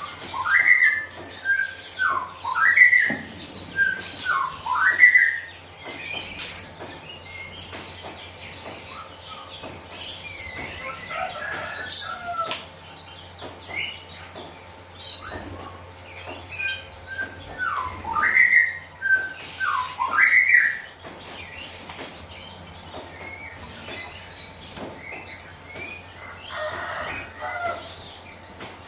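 Oriental magpie-robin (kacer) singing: phrases of loud sweeping whistled notes come in two bursts, one at the start and one about two-thirds through, with softer scattered chirps between them.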